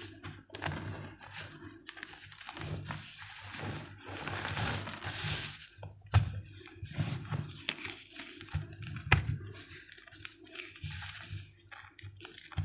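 Blocks of gym chalk being crushed and crumbled by hand: irregular crunching with a stretch of powdery crumbling hiss midway and two sharp snaps, about six and nine seconds in.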